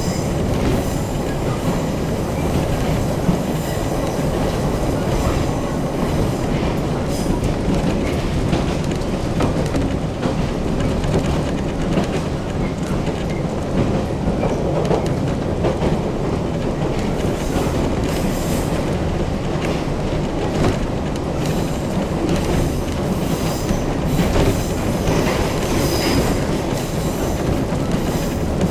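Toyama Chiho Railway electric train running at speed, heard from inside the car: a steady rumble of wheels on rails with frequent rail-joint clicks, and a brief high wheel squeal near the end.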